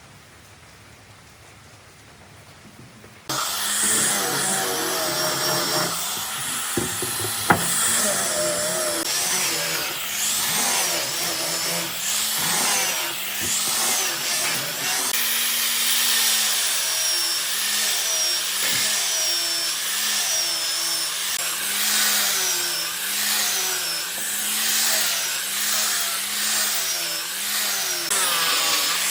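A power tool cutting or sanding into wood starts suddenly about three seconds in and runs on with a loud rasping noise. Its low tone dips and rises about once a second as the tool is worked back and forth.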